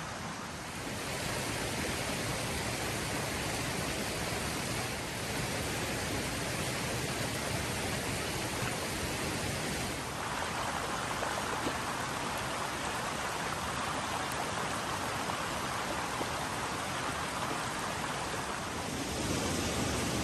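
Creek water running, a steady rushing noise that shifts in level a few times.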